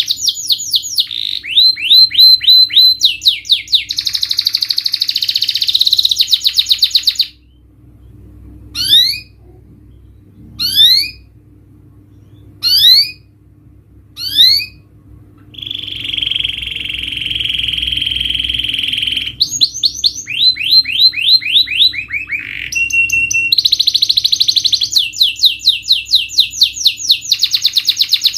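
Domestic canary singing: fast rolling trills and rapidly repeated rising notes. About seven seconds in, a pause is broken only by four single upward-sweeping whistles, then comes a long held buzzing note and more rapid trills.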